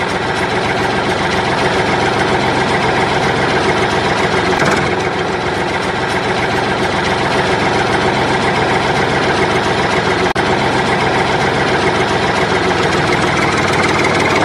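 Steady heavy engine idling sound, unchanging throughout, with a brief dropout about ten seconds in. Because the machine on screen is a toy excavator with no engine, this is a recorded or electronic engine sound rather than a real engine.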